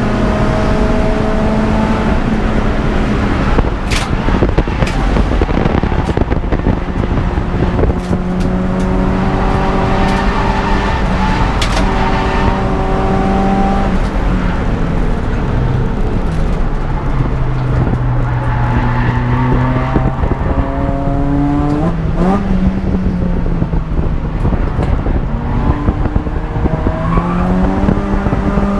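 Peugeot 206 GTI's four-cylinder engine running hard, its pitch holding, dropping and climbing again through gear changes, with a quick up-and-down rev blip about 22 seconds in, over a steady rush of road and wind noise. A few sharp knocks sound in the first dozen seconds.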